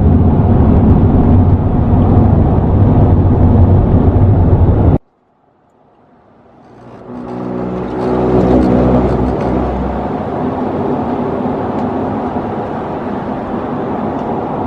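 Car driving at road speed, a steady rush of tyre and engine noise. The sound cuts out abruptly about five seconds in and fades back up over the next few seconds, with an engine hum standing out for a moment as it returns.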